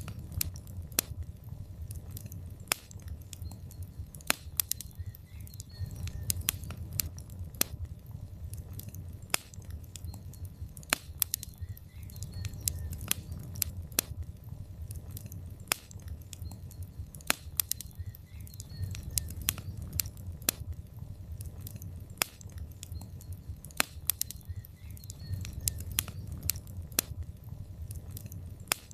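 Log fire in a fireplace crackling, with frequent irregular sharp pops and snaps over a low steady rumble of the flames.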